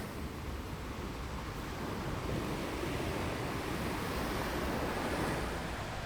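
Ocean surf washing on a beach, a steady hiss and low rumble that swells gently about two seconds in, with wind buffeting the microphone.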